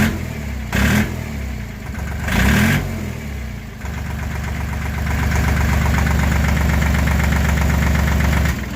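Kubota L2550 tractor's diesel engine running on freshly fitted injectors, revved up briefly twice, then running steadily before dropping away near the end.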